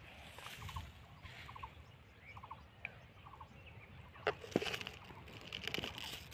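Faint repeated bird call: short rattling groups of three or four quick clicks, a little under a second apart. Leaves brush and knock against the microphone once or twice about four seconds in.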